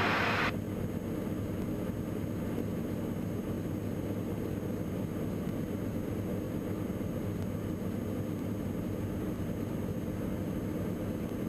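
Diamond DA42 NG twin-engine aircraft's turbodiesel engines droning steadily as heard in the cockpit, with a thin steady high tone above the hum.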